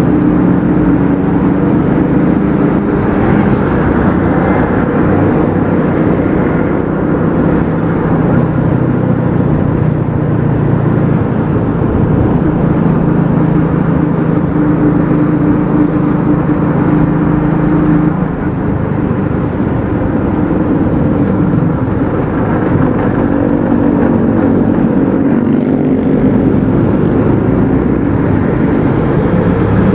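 Motorcycle engine running while riding, with wind and road noise over it; the engine note holds steady for long stretches and shifts pitch a few times, rising near the end.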